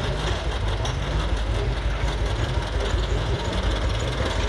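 Tractor engine running steadily at low revs, a deep continuous chug with its pitch wavering slightly.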